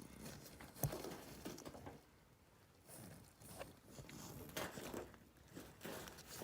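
Faint scattered clicks and rustling of handling, with one sharper click about a second in.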